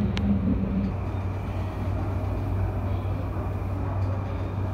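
JR Yamanote Line electric train running along the track, heard from inside the front car: a steady low rumble of wheels on rail, with a short click just after the start.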